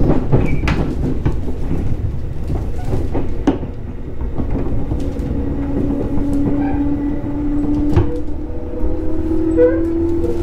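JR 211 series electric train heard from inside the car while running: a steady rumble of wheels on rail with a few sharp rail-joint clicks. About halfway in, a humming tone comes in and rises slowly in pitch.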